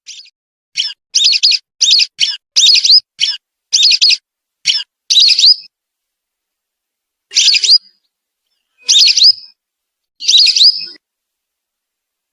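Whistling ducks (belibis) giving short, high whistled calls: a quick run of about ten in the first half, then three more spaced about a second and a half apart.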